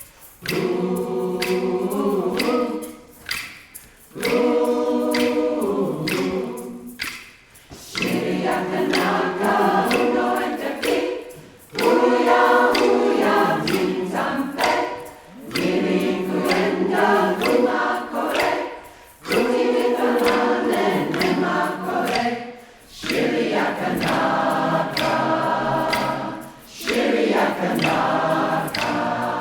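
Community choir singing unaccompanied in harmony, in phrases of a few seconds broken by short pauses for breath.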